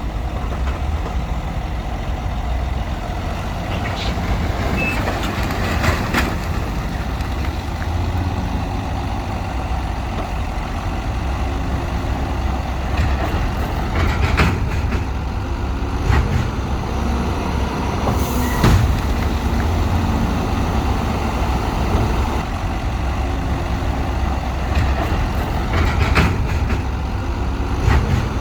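Heavy diesel earthmoving machinery working, its engines running steadily under load, with scattered sharp clanks and knocks.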